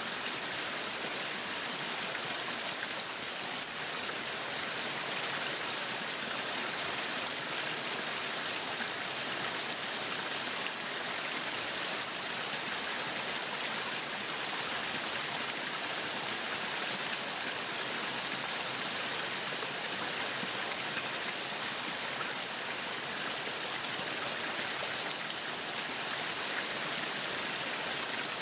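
Meat sizzling on a yakiniku grill: a steady, even hiss that does not let up.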